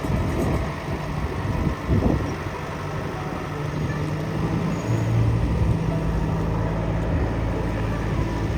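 Engine running with a steady low hum, with wind buffeting the microphone in gusts, hardest about two seconds in.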